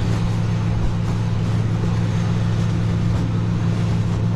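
Flatbed tow truck's engine idling, a steady low hum.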